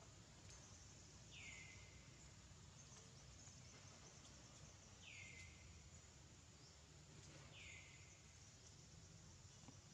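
Faint outdoor forest ambience: a bird call that sweeps down in pitch and settles is repeated three times, a few seconds apart, over a steady high insect hum.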